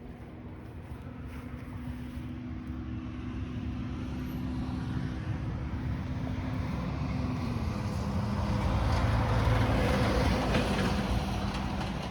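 Yanmar AF26 compact tractor's diesel engine running with a steady hum, growing steadily louder and loudest near the end; the hum drops slightly in pitch about two-thirds of the way through.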